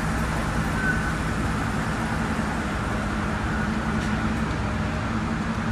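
A vehicle engine running steadily with a low hum, most likely the tow truck's engine idling during the recovery.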